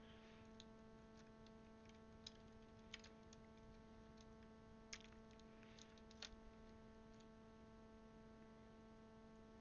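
Near silence with a steady low hum and a few faint clicks of plastic keycaps being fitted onto the keyboard's Cherry switches, scattered about two, three, five and six seconds in.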